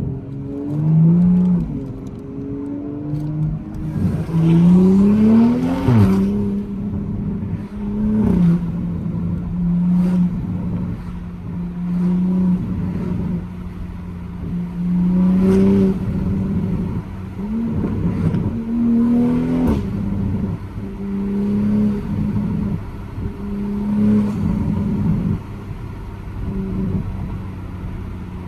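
Toyota MK5 Supra engine and exhaust under way, revving up in several pulls with the pitch climbing and dropping back, and holding a steady drone in between. A few short sharp cracks are heard, the exhaust pops typical of this loud Supra.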